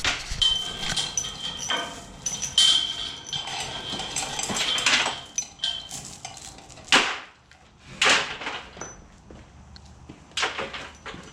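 Clinks and knocks of hand tools and metal parts being handled, with a few louder single knocks in the second half. Short high-pitched squeaks come and go over the first half.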